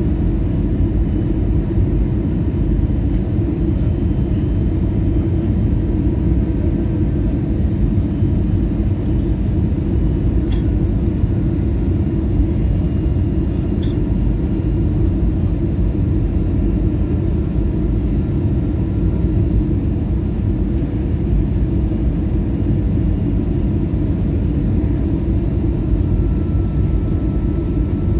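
Steady cabin noise inside an Airbus A320-214 airliner on approach: a low rumble of airflow and engines heard from a forward seat. A faint high whine comes in near the end.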